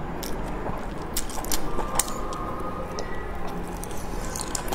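Close mouth sounds of a person chewing saucy fried food: wet smacking and scattered sharp clicks over a steady low hum.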